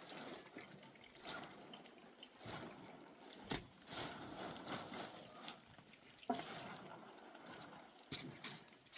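Liquid splashing and trickling in uneven spurts, with a few sharp knocks about a third, two thirds and near the end of the way through.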